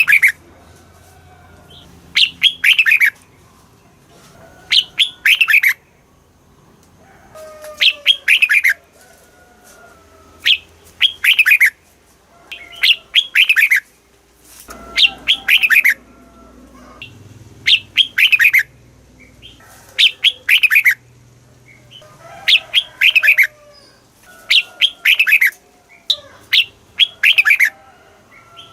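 Red-whiskered bulbul singing: a short phrase of several quick falling notes, repeated about every two and a half seconds, about a dozen times.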